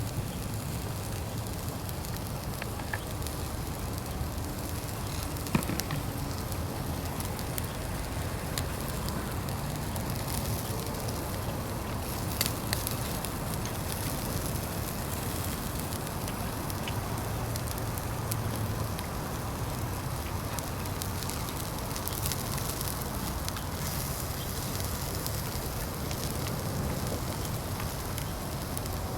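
Fire burning in a Uniflame Fire Grill fire pit: a steady hiss with scattered crackles and pops, the sharpest a little over five seconds in and twice around twelve seconds in.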